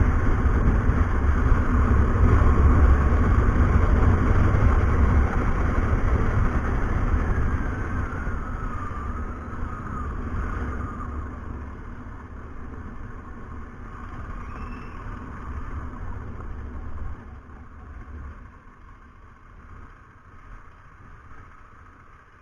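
KTM 390 Adventure's single-cylinder engine running under way, a steady low rumble with road and wind noise. The sound grows steadily quieter through the second half.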